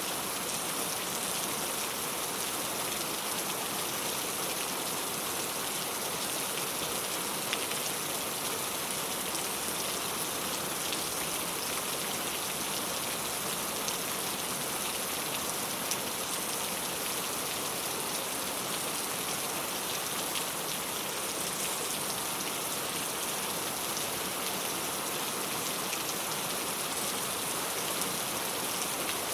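Steady rain falling on a clay-tile roof, an even hiss of drops with an occasional single louder tick.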